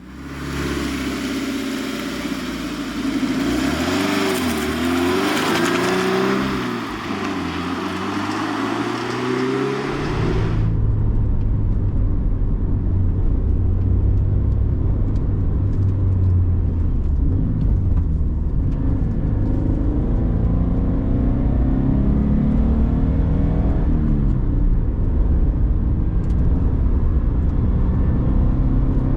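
Turbocharged 2013 Scion FR-S's 2.0-litre flat-four engine driving, its pitch rising and falling as it revs up and settles. About ten seconds in, the sound changes abruptly to a deeper, duller drone with the hiss gone.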